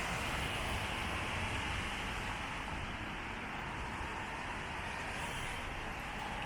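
Steady hiss of rain on a wet city street, with low traffic noise underneath.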